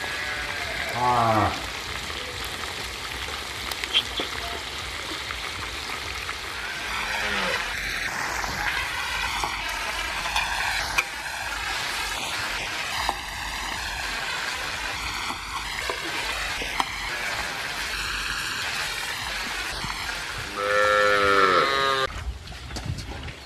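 Frogs frying in a wok: a steady sizzling hiss, with the occasional click of a metal spatula stirring them. A short drawn-out call sounds about a second in, and a louder one near the end.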